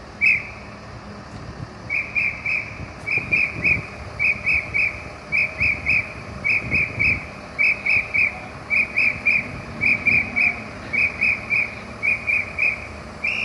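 A pea whistle blown in quick triplets of short blasts, one triplet about every second, after a single blast near the start.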